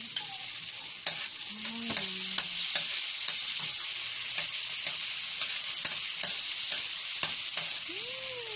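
Onion sizzling as it fries in melted margarine in a steel wok, with a steady hiss. A metal ladle stirs it, clinking and scraping against the wok about twice a second.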